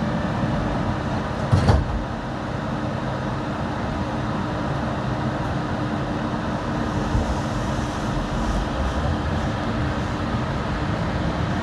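Yurikamome automated transit car: its sliding doors shut with a sharp thud about a second and a half in. A steady hum with a low, even tone follows.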